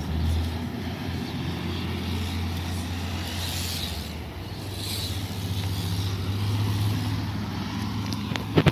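A motor running steadily with a low, slightly wavering hum, and a few sharp knocks near the end.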